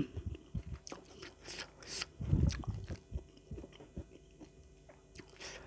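Close-miked chewing of a mouthful of food, with small wet mouth clicks and a louder stretch of chewing about two seconds in.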